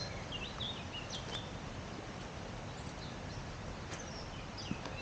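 Small birds chirping in short wavering calls, most in the first second and a half and again near the end, over a steady outdoor background hiss.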